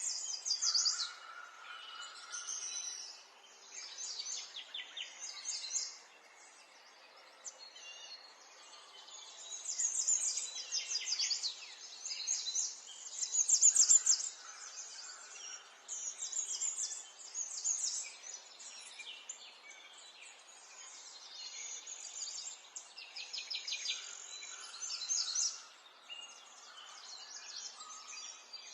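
Several small songbirds chirping and singing, with fast high trills and short calls overlapping one another in bursts every few seconds, over a faint steady background hiss.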